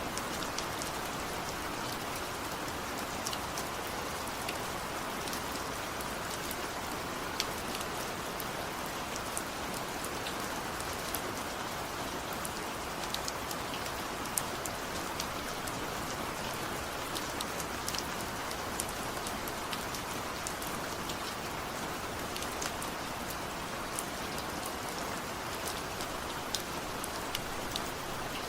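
Steady rain falling, a dense even hiss with many small scattered drop ticks.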